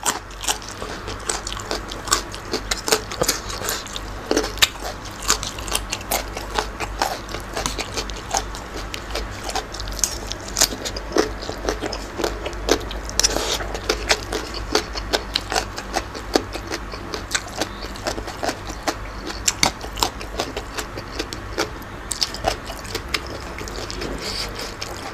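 Close-up chewing and crunching of spicy raw shrimp salad with crisp raw vegetables. Many short, irregular crunches and clicks follow one another, with no pauses.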